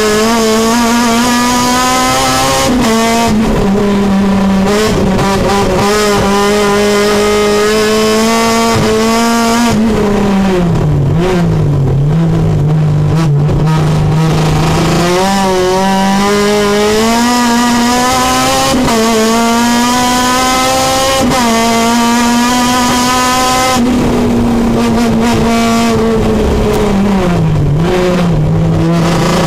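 Supercharged 2007 K24 four-cylinder engine of a Honda Civic race car, heard from inside the cabin at full throttle on a hot lap. Its note climbs through the revs and drops sharply at each of four upshifts, and twice dips low as the car brakes and downshifts for a corner before pulling up again.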